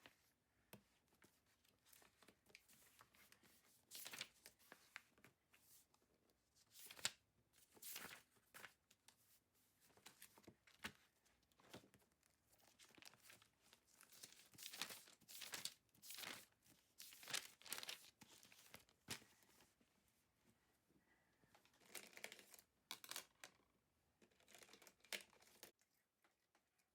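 Faint, irregular crinkling and tearing from something being handled, in repeated short rustles with quiet gaps between them.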